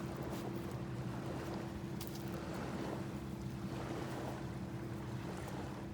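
Steady low hum made of several even tones over a soft wash of noise, with a faint click about two seconds in.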